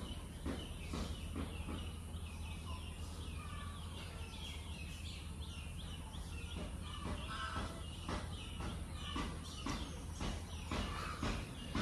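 Birds chirping and calling again and again over a steady low hum.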